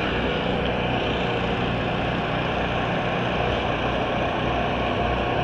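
Steady rumbling noise with a low hum underneath, holding level throughout.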